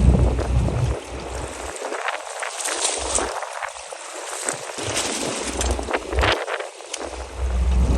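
Wind buffeting the microphone in gusts on a fishing boat at sea, with water splashing and sloshing over a steady hiss.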